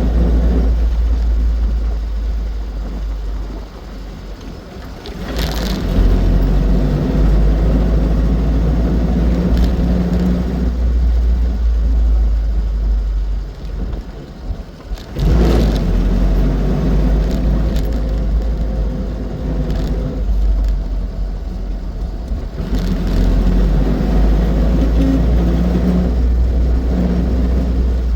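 Austin 7 Ruby's small four-cylinder side-valve engine pulling the car along, with a heavy low rumble of engine and road noise. Twice the sound falls away briefly and then comes back strongly after a short sharp noise.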